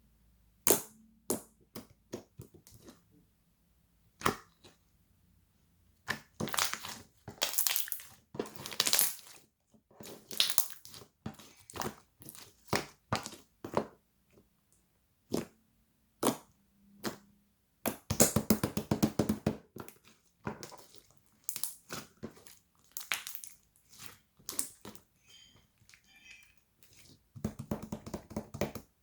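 Irregular crunching and crackling in short bursts with pauses between them. It is most sustained about two thirds of the way through and again near the end.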